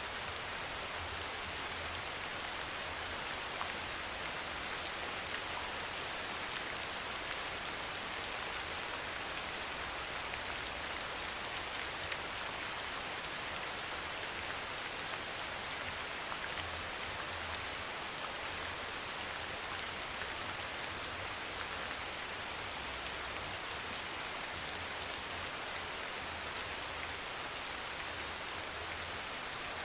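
Steady soft rain falling, with fine drops pattering on a surface in an even hiss.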